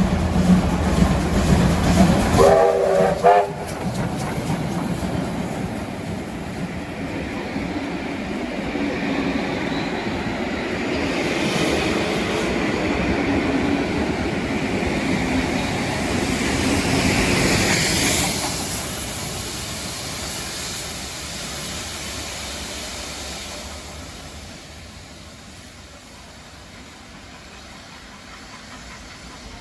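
A train passing, with a brief blast of its horn about three seconds in, then the rolling noise of the train fading away over the rest of the time.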